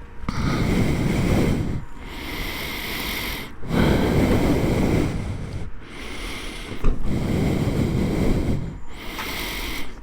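Heavy breathing close to the microphone, in and out in an even rhythm roughly every two seconds.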